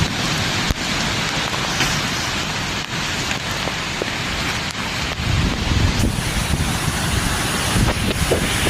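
Heavy rain and strong storm wind, with gusts buffeting the microphone as a low rumble that grows heavier in the last few seconds, and a few sharp ticks of rain or debris striking.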